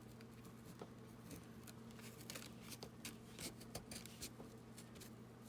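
Faint rustling and light tapping of paper and card being handled and pressed down while gluing, a scatter of small irregular clicks over a steady low hum.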